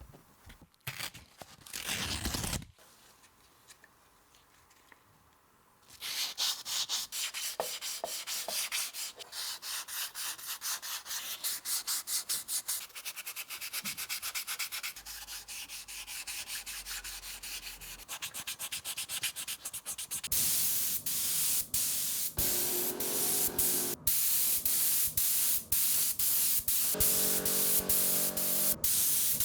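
Sandpaper rubbing over the drill's part in rapid back-and-forth strokes. It starts after a brief rub about two seconds in, runs steadily from about six seconds in, and grows louder from about twenty seconds in.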